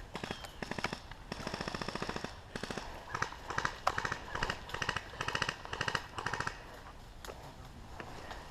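Airsoft guns firing in rapid bursts, a long string of shots followed by many short bursts, with a few single shots near the end.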